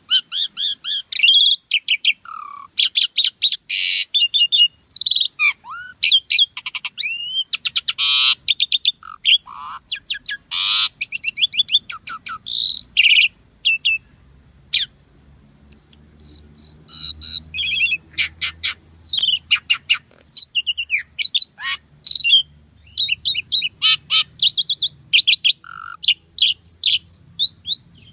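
Pied starling (jalak suren) singing and chattering almost without a break: a rapid jumble of whistles, clicks and quick up-and-down notes, with a brief pause about halfway through.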